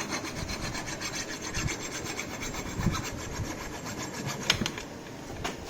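Hand file rasping in repeated strokes on the metal of a pit bike's swing arm, filing out the axle slot to fit an oversized aftermarket axle.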